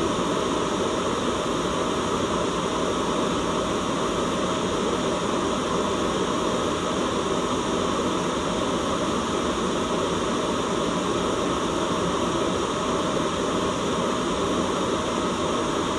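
Steady white noise: an even, unchanging hiss with a fuller, deeper rush in the lower range.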